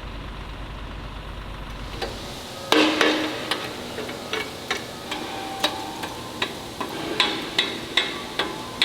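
Irregular sharp knocks and clanks, about one or two a second, some ringing briefly, starting a few seconds in, over a low steady machine hum that drops away as the knocking begins.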